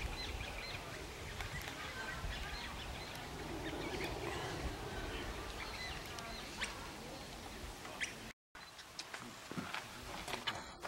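Birds chirping and calling repeatedly over a low rumble, then a short break and a few sharp clicks near the end.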